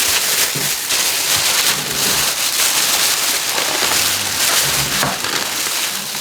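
Chicken deep-frying in hot oil, a loud steady sizzle.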